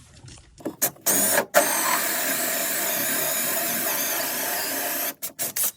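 Power drill boring a hole down through the floor for a sink drain pipe. It starts with a few short bursts, runs steadily for about three and a half seconds, then stops and gives a few more short bursts near the end.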